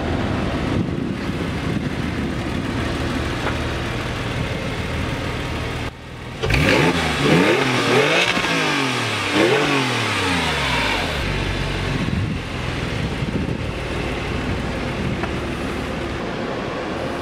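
2005 Porsche 911 Carrera 4S's 3.6-litre flat-six running through its factory dual exhaust. About six seconds in it is revved several times, the pitch rising and falling with each rev, then it settles back to steady running.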